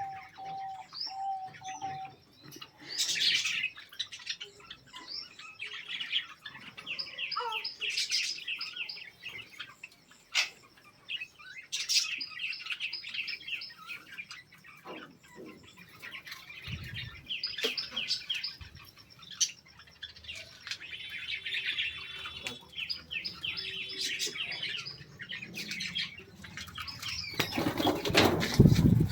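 Many caged birds in an aviary chattering in runs of rapid, high chirps, with a few short whistled notes at the start. Near the end there is a loud flurry of wing flapping.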